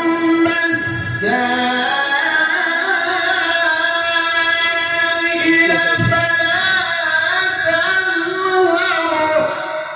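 A male Quran reciter's voice chanting in the melodic tilawah style, one long drawn-out phrase held on sustained notes with ornamented turns, fading near the end.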